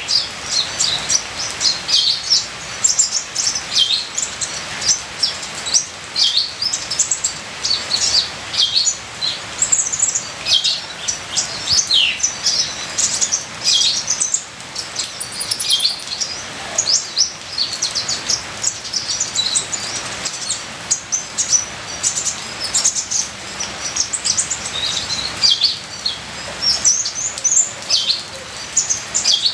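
Kolibri ninja, a sunbird, singing a fast, continuous run of high, thin chirps and short falling notes, with a steady rain-water patter beneath.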